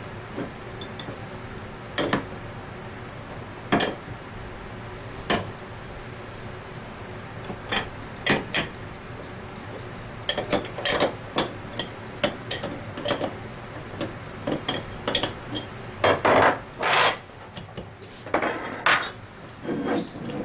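Metal fixtures, tools and pump parts clinking, tapping and knocking together as seals and bearings are fitted into an Anest Iwata ISP250 scroll pump. The sharp taps come a few seconds apart at first, then in quick runs, with a few longer, louder knocks and scrapes near the end.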